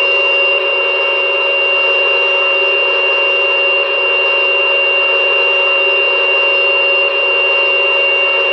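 Sound unit of a 1/16 RC M1A2 Abrams tank playing a simulated gas-turbine engine at idle through its small speaker: a steady high whine over an even hum.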